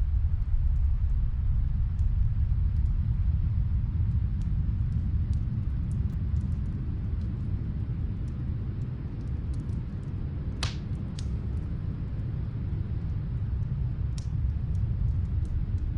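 Steady low rumble of snowstorm wind, with faint scattered crackles of a wood fire heard as if from another room and one louder pop about two-thirds of the way through.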